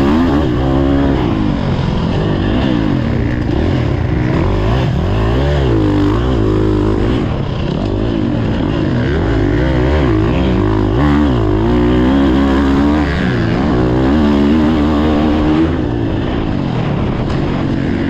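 Motocross dirt bike engine revving up and down over and over, its pitch climbing and dropping as the throttle opens and shuts.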